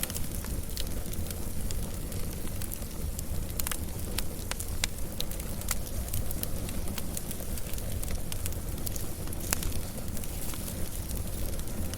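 Wood fire burning steadily, with a low rumble under frequent irregular sharp crackles and pops.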